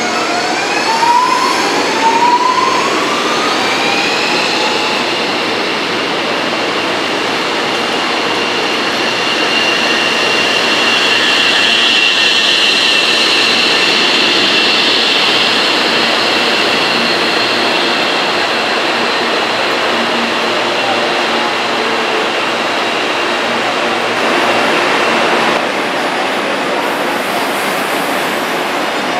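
Electric passenger train moving through a station over a steady rail rumble. In the first few seconds a motor whine rises in pitch, as when a train pulls away. After that a steady high-pitched whine runs through the middle.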